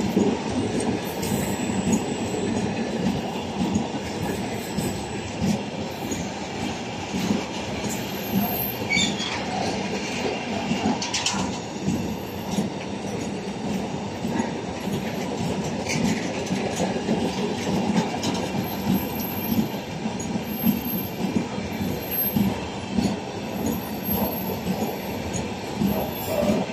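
Freight train wagons rolling past at close range: a steady clatter and rumble of wheels knocking over the rail joints.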